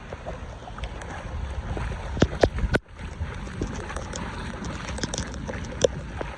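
Floodwater rushing into a cleared storm drain as a steady noisy wash, with a few sharp knocks or splashes about two seconds in and another near the end.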